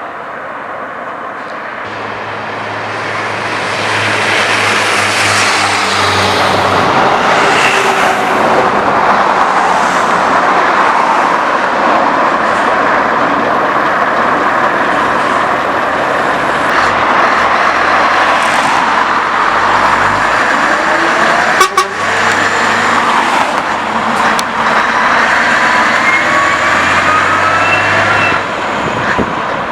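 Scania V8 truck with a straight-piped exhaust running loud, its sound building over the first few seconds and then holding strong.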